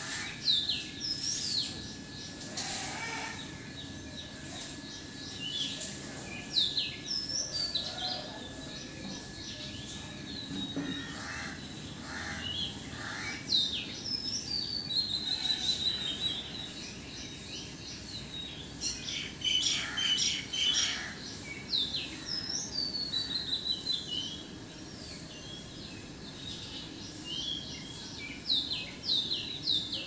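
Small birds chirping and calling in short, quick notes that come in scattered clusters, busiest around the middle and near the end, over a steady high-pitched background hiss.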